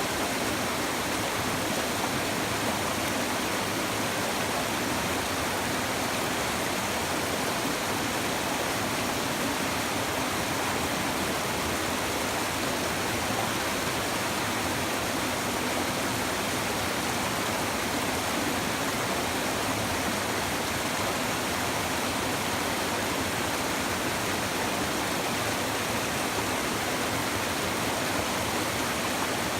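River water babbling over stones in a steady, unbroken rush.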